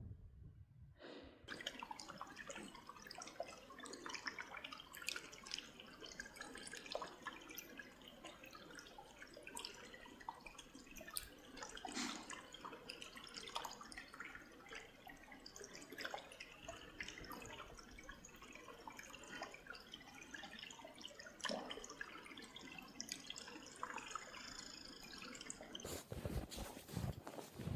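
Open brook water trickling and dripping steadily. It starts suddenly about a second and a half in. A few louder, deeper thumps come near the end.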